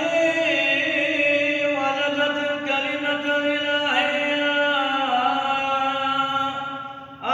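A solo male voice chants an Arabic Byzantine-rite hymn to the Mother of God, holding one long melismatic phrase. The pitch steps down a few times across the phrase, which fades near the end before the next phrase begins.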